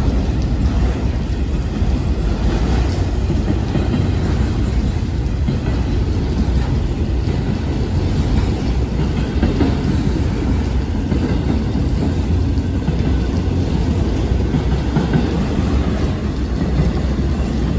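Freight train rolling past, a steady rumble of railcar wheels on the rails.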